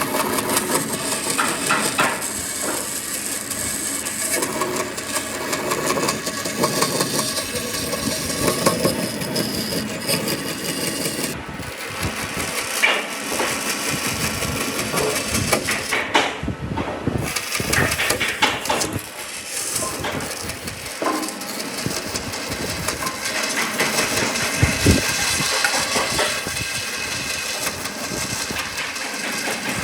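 Woodworking power tools running in a workshop, a steady motor noise with scattered knocks and clatter of wood being worked. The noise breaks off briefly twice as the footage cuts.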